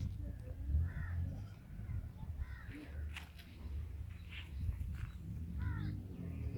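Birds calling: a call with a rising-then-falling pitch repeats several times, with short higher chirps between, over a steady low rumble.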